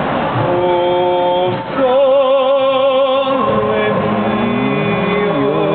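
A gondolier singing in an operatic style, with steady notes shaken by vibrato. About two seconds in he holds a long, louder note, and the melody moves on with sliding notes after it.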